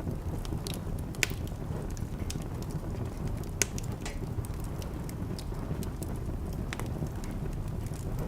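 Wood fire burning in a fireplace: a steady low rumble of the flames with irregular crackles and pops, two sharper pops about a second in and near the middle.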